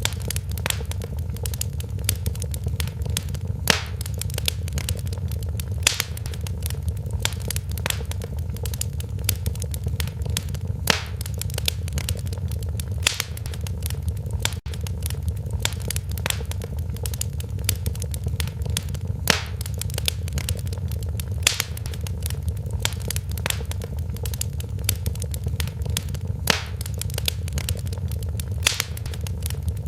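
Wood fire in a fireplace crackling, with frequent sharp pops and snaps over a low steady rumble of the flames. The sound cuts out for a split second about halfway through.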